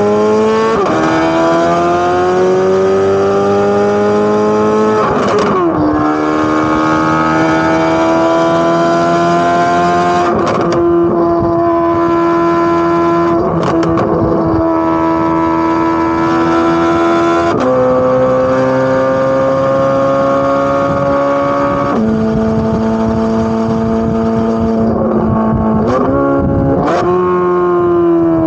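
Corvette C8 Z06's flat-plane-crank V8 pulling at steady, fairly high revs through the exhaust, shifting several times: the pitch drops sharply on upshifts and jumps up on downshifts with throttle blips. A few short cracks cut in along the way.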